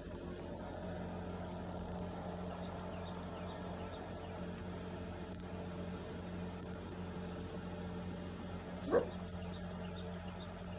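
Dog giving one short cough about nine seconds in, over a steady low hum. The owner, unsure, takes it for a cough and says the dog does it constantly.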